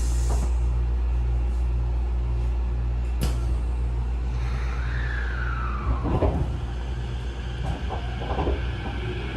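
Tokyo Metro 15000 series electric train standing at a station with a steady low hum from its on-board equipment. A sharp click comes about three seconds in, and a falling whistle and a few low thumps follow around five to six seconds.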